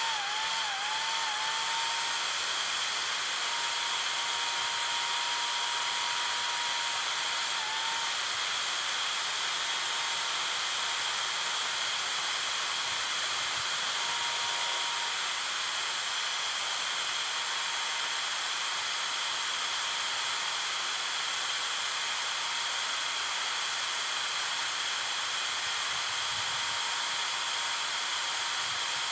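A steady hissing noise with a faint whine under it; the whine dips in pitch a few times in the first couple of seconds, then holds steady and fades in and out.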